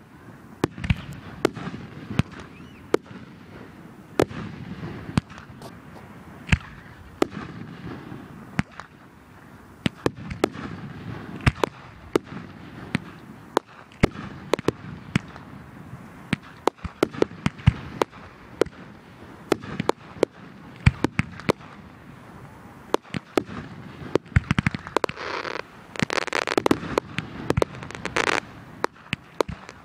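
Fireworks going off: a run of sharp bangs and pops at irregular intervals, coming thicker and louder over the last few seconds.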